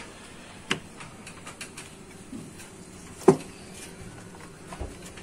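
Scattered light clicks and taps of a replacement ignition coil being handled and fitted, with a sharper click about a second in and the loudest click about three seconds in.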